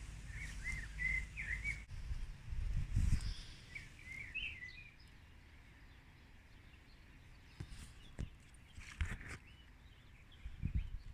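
A small songbird chirping in two quick twittering phrases in the first half. A low rumble of wind on the microphone comes in the first three seconds, and a few soft knocks follow in the second half.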